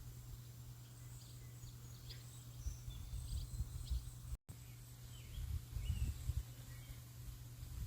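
Birds chirping faintly and intermittently over a steady hiss, with irregular low rumbling thumps underneath. The sound cuts out completely for an instant about halfway through.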